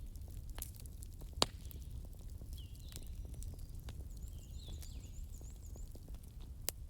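Wood fire burning in a fireplace: sharp crackling pops over a steady low rumble, the loudest pop about a second and a half in. Faint high chirping runs through the background.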